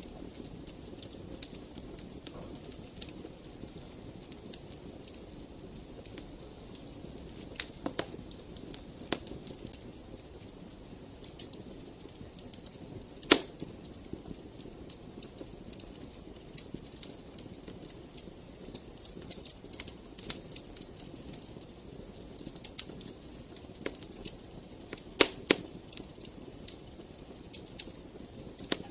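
Fireplace fire crackling: irregular sharp pops and snaps over a soft, steady hiss of flames. The loudest pop comes about halfway through, and a couple of strong pops close together come near the end.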